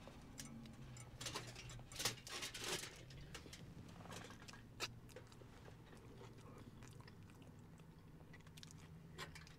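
Faint chewing and biting on a chicharrón verde taco, with a few sharp clicks clustered about two seconds in, over a low steady hum.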